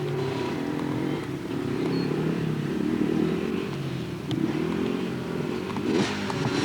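Dirt bike engine running with wavering revs, then revving up sharply about six seconds in.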